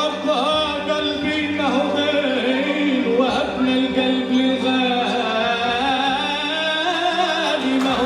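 Live Arabic music ensemble performing: a sung melody that bends and glides in ornamented runs over steady held instrumental notes.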